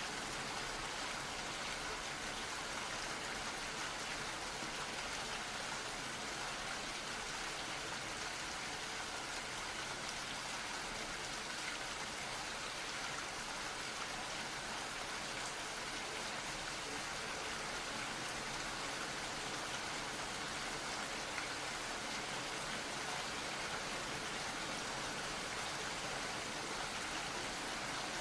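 Steady rainfall, an even hiss of drops falling on a surface, with no change in intensity.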